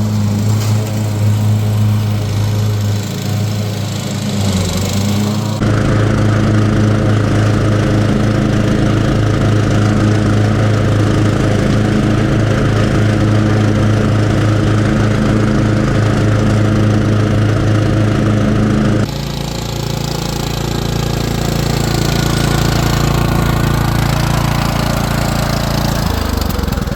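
Cub Cadet XT1 riding lawn mower's engine running steadily while mowing, with the sound changing abruptly twice, about six and nineteen seconds in.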